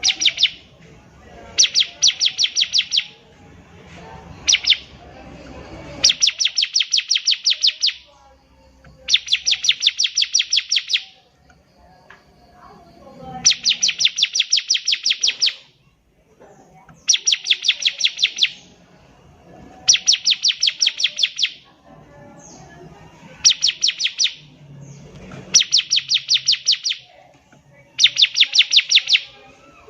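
Bar-winged prinia singing: loud trilled phrases of quick, clear, high notes, about eight notes a second. Each phrase lasts a second or two and repeats every few seconds.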